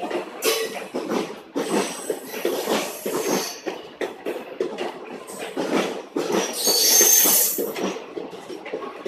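Indian Railways passenger coaches rolling past a platform, their wheels clattering on the track, with a loud, high metallic squeal of wheels on rail about seven seconds in.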